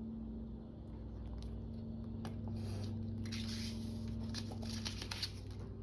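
Paper being cut and handled: short scraping and rustling strokes, busiest in the middle, over a low steady hum.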